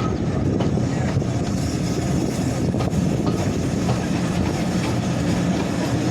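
Train running along the track: a steady rumble of wheels on rail with a few faint clicks.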